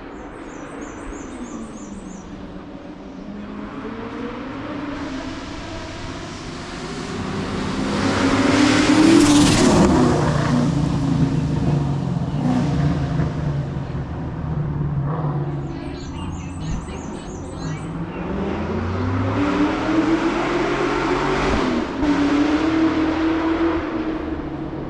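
Hillclimb race car engines at full throttle, the pitch rising through each gear and dropping at the shifts. The loudest point comes about a third of the way in, and a second long climb in pitch follows later. Two short runs of high, repeated chirps are also heard.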